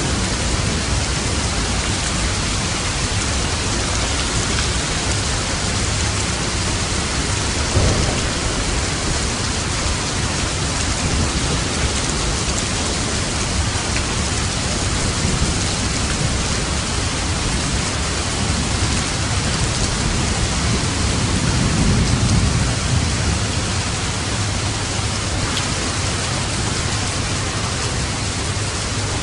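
Steady rain falling on a roof, with low thunder rumbling twice: briefly about eight seconds in and longer about three quarters of the way through.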